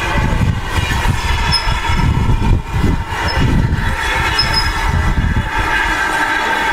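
Railway train running nearby: a continuous low rumble with a sustained tone held over it.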